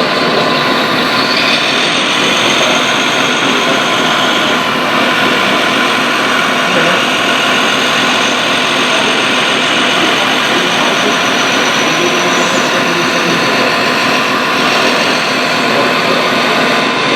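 Radio-controlled scale excavators working: steady high mechanical whine of their electric motors and hydraulic pumps, with the pitch rising and falling briefly a few times as the machines change speed.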